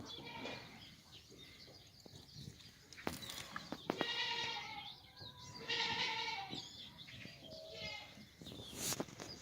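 Black goats bleating: a few wavering calls of about a second each, starting about four seconds in. A couple of sharp knocks are heard as well.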